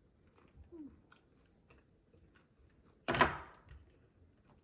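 A person eating shell-on prawns, with faint mouth clicks and chewing and one loud sudden noise about three seconds in that fades quickly.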